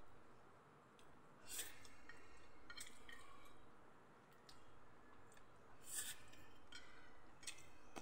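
Faint mouth sounds of someone eating pandesal rolls and pancit noodles: chewing with a handful of sharp, wet lip smacks scattered a second or more apart.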